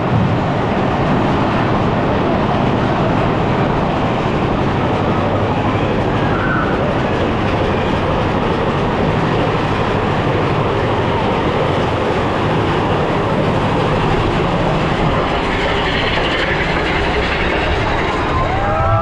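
Mine-train roller coaster running along its track, heard from on board: a steady, loud rumble and clatter of the train's wheels on the rails.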